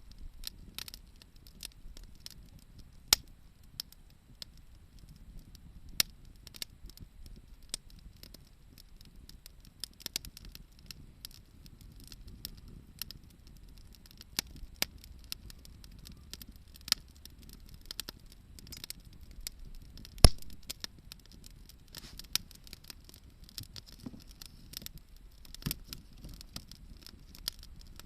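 Wood bonfire crackling, with irregular sharp pops and snaps over a low rumble; one pop about twenty seconds in is much louder than the rest.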